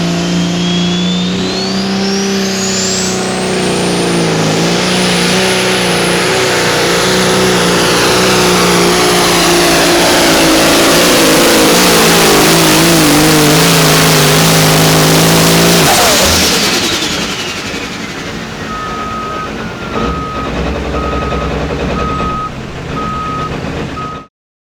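Turbocharged pulling engine at full power under load, its turbo whine climbing steeply in the first few seconds and then holding high and loud. About 16 seconds in the engine is let off and the turbo whine winds down over several seconds. A backup alarm beeps steadily near the end before the sound cuts off.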